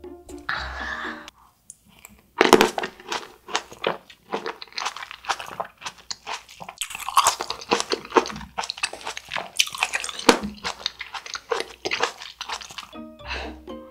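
Close-up crunching and wet chewing of crisp Shine Muscat grapes: a first loud bite about two and a half seconds in, then a string of irregular crunches as they are chewed. A brief hiss comes about half a second in, before a moment of quiet.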